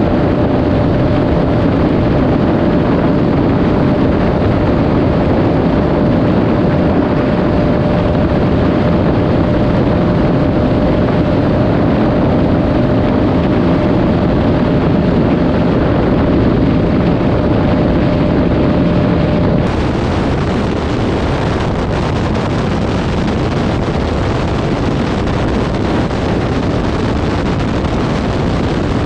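Bajaj Pulsar 200 single-cylinder engine running flat out at about 155 km/h, a steady drone with a thin high whine, under heavy wind rush on the on-board microphone. About two-thirds of the way in the sound switches abruptly to another Pulsar 200 at the same speed, now mostly wind rush with the engine fainter.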